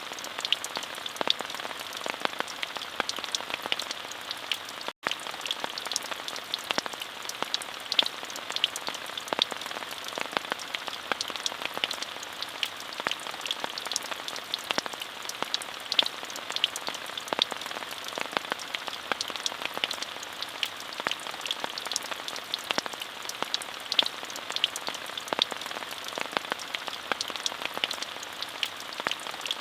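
Steady rain falling, an even hiss dotted with many sharp individual drop hits. A split-second dropout about five seconds in.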